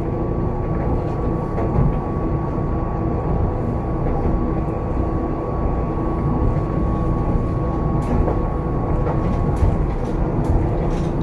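Hankai Tramway streetcar running, heard from on board: a steady low rumble with a constant motor whine, and a few sharp clacks from the wheels.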